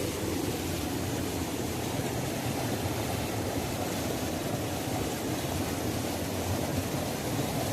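Waterfall: water rushing steadily with a deep, unbroken rumble.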